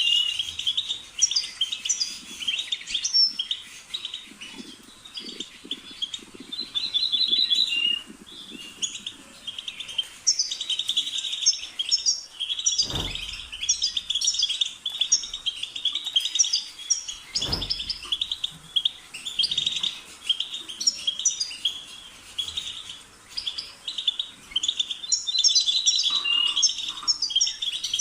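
European goldfinch singing a fast, continuous twittering song full of trills and chirps, with only brief pauses. Two dull knocks come about halfway through.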